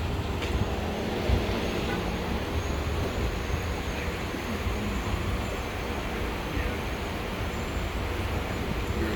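Steady low rumble of a motor vehicle, engine and road noise.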